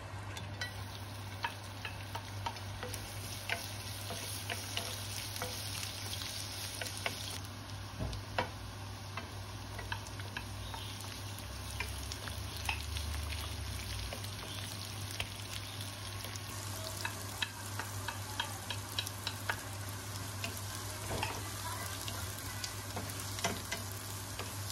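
Sliced onion and ginger sizzling in hot oil in a nonstick frying pan, stirred with a wooden spatula that taps and scrapes against the pan many times. A low steady hum runs underneath.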